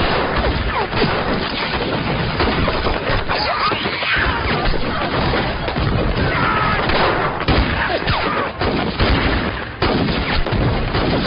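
Heavy gunfire: many guns firing at once in dense, overlapping volleys.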